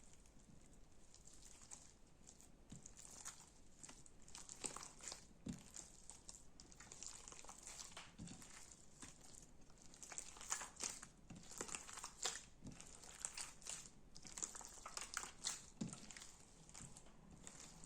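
Slime being squeezed and pressed by hand: quiet, irregular crackling and popping clicks, thickest in the second half.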